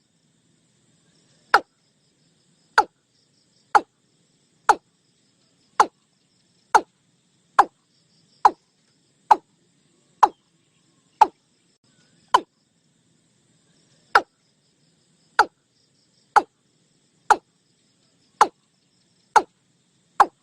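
Watercock calling: a steady series of short, sharp, downward-swooping notes, about one a second, with one brief pause midway.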